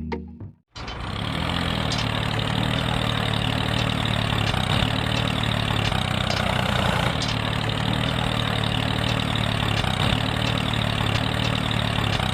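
A small engine idling steadily with an even low hum and faint ticking. It begins abruptly less than a second in.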